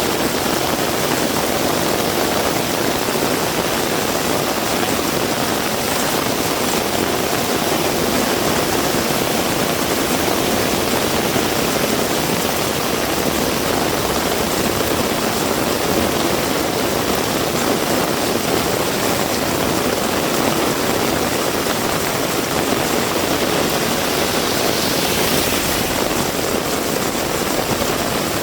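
Heavy rain pouring steadily, a dense, even hiss with no letup, swelling briefly in its higher range near the end.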